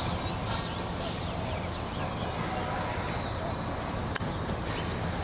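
A bird calling over and over in short, high, falling chirps, about two a second, over a steady low rumble; a single sharp click about four seconds in.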